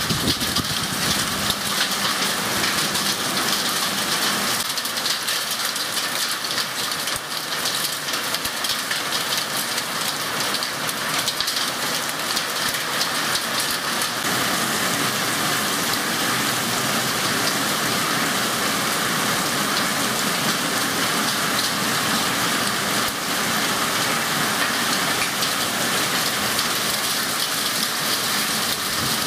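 Heavy thunderstorm downpour, rain pouring steadily onto wet patio tiles and garden foliage.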